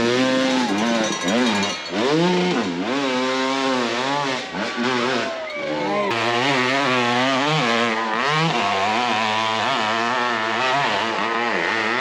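Off-road motorcycle engines revving hard, their pitch repeatedly rising and falling with the throttle; from about six seconds in, more than one bike is heard at once.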